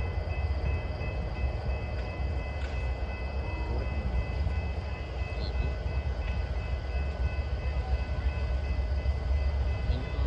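A train's steady low rumble, with faint steady high-pitched tones above it.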